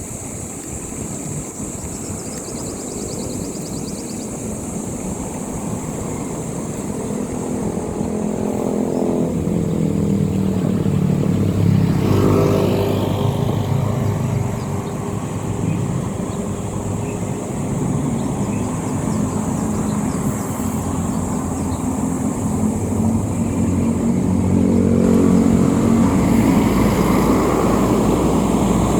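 Motorcycle engine running on the road, its pitch rising and falling with speed. It grows louder about a third of the way in and again near the end, over a steady low rumble.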